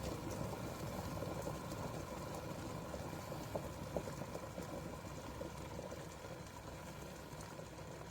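Water boiling in a Hamilton Beach glass electric kettle: a steady bubbling rumble with small crackles. A sharp click comes right at the start, and the boil then slowly dies down.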